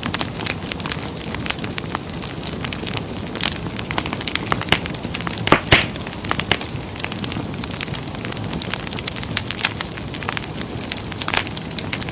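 Wood fire crackling and popping in a fireplace: irregular sharp snaps over a steady low rumble of flame, with one louder pop near the middle.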